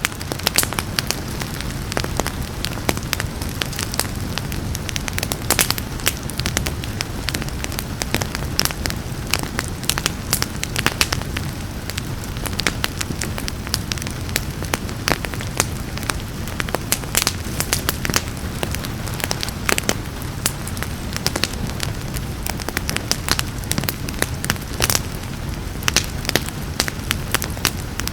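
Fireplace fire crackling, with frequent irregular sharp pops over a steady low rumble, and rain falling steadily.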